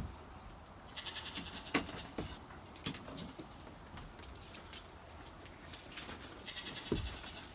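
Goats bleating, one high call about a second in and another near the end, among scattered clinks and knocks.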